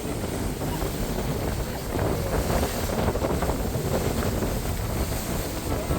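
Wind buffeting the microphone on a moving boat, over a steady low rumble of the boat and the water.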